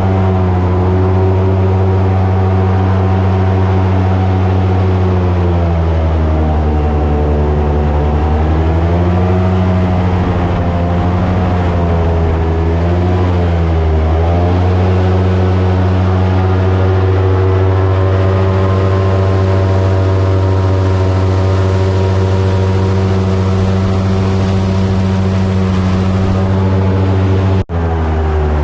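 Tour boat's engine and propeller running steadily at speed. Its pitch dips and rises back twice as the boat slows and speeds up, then the sound cuts off abruptly near the end.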